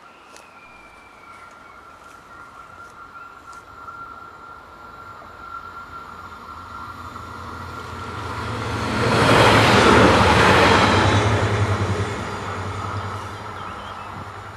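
Siemens Desiro diesel railcar (DB class 642) approaching and passing: the low hum of its diesel engines and the rush of wheels on rail build from about seven seconds in, are loudest around nine to eleven seconds in, then fade as it runs away.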